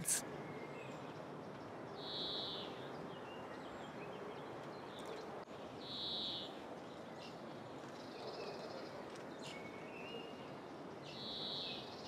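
Faint outdoor ambience with a steady hiss, broken three times, about four seconds apart, by a short high-pitched bird chirp.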